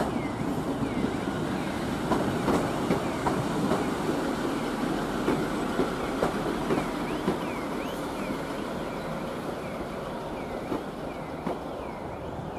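Two-car diesel multiple unit running over the station pointwork, its wheels clicking over rail joints and crossings with many short, repeated flange squeals. The sound slowly fades as the train draws away.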